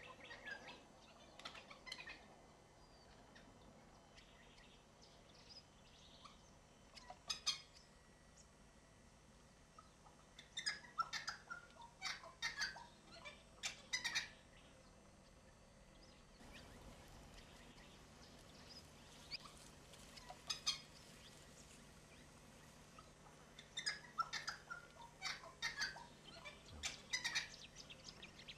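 Faint bird calls: short chirps that come in scattered bursts, several in quick succession at a time, over a quiet outdoor background.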